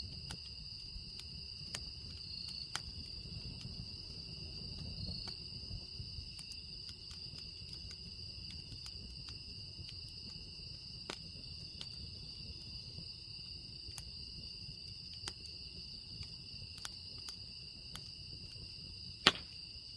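Wood fire burning, crackling with scattered sharp pops and one much louder snap near the end, over a low steady rumble. Insects chirr steadily in the background.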